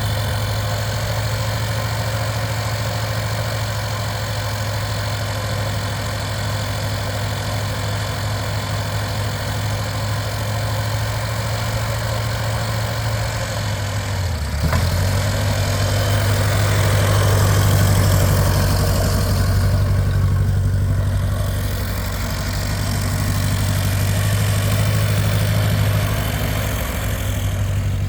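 Ferguson TO-20 tractor's four-cylinder gasoline engine running steadily at idle. About halfway through its speed dips briefly, then it runs on a little louder.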